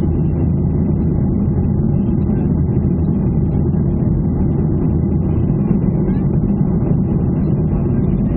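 Boeing 737 airliner's jet engines running with a steady, unbroken low rumble and a faint high whine.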